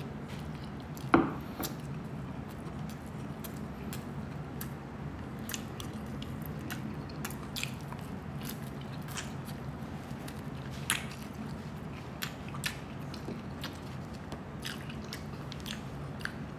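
Close-up mouth sounds of someone chewing crispy deep-fried pork belly and rice: scattered crunchy clicks and smacks, with one loud click about a second in, over a steady low hum.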